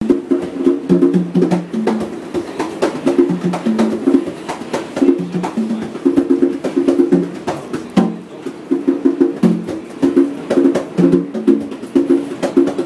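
Conga drums played by hand in a fast, steady rhythm, with open tones on a few different pitches repeating a pattern.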